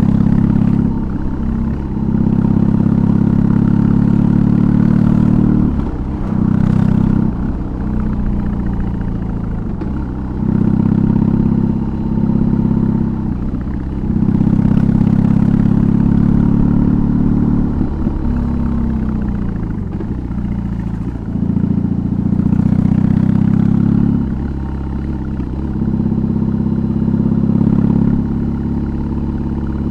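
2022 BMW R18's big boxer twin through an aftermarket exhaust while riding: the throttle is rolled on and off again and again, the note dipping at each lift-off. Its pitch falls steadily for a few seconds about two-thirds of the way through as the bike slows.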